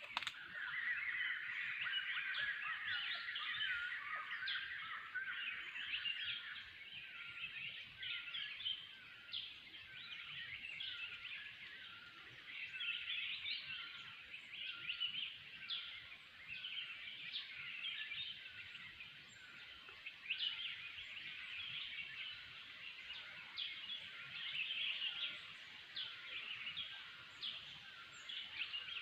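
A dense chorus of many forest birds chirping and calling over one another, continuous and overlapping, busiest in the first few seconds.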